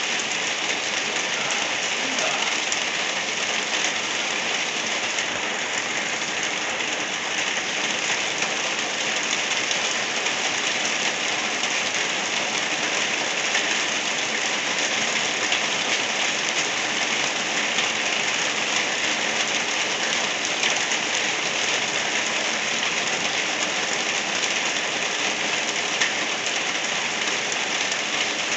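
Gentle rain falling steadily, an even hiss of many drops with no breaks or pauses.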